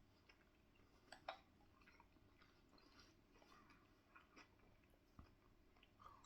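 Faint chewing and soft mouth sounds of a person eating curry, with scattered small clicks, the sharpest about a second in.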